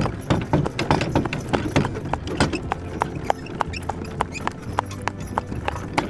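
Horse hooves clip-clopping: a quick, uneven run of hoof clicks.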